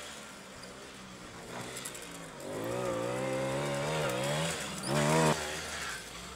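Small 50cc two-stroke quad bike engine, quiet at first, then revving up and down from about two and a half seconds in, with a brief higher, louder rev near the end.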